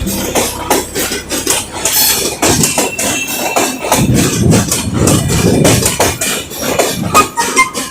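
Busy railway-station clatter: rapid, irregular knocks and clanks over a loud low din that swells in the middle, with a few short high tones near the end.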